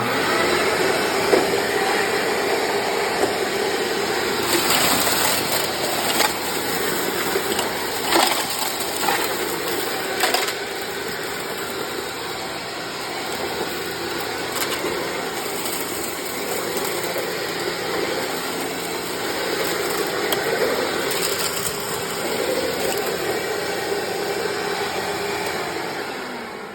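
1997 Sharp Twin Energy EC-12TWT4 upright vacuum cleaner switched on and running steadily with its brush roll turning, with a few sharp clicks in the first half, then winding down with a falling pitch as it is switched off near the end. It runs properly on this test, with the brush roll's shelter plate refitted.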